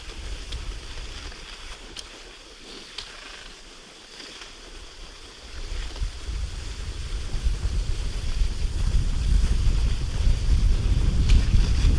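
Wind buffeting the microphone: a low rumble that eases off for a few seconds and builds again from about halfway, with a few sharp clicks in between.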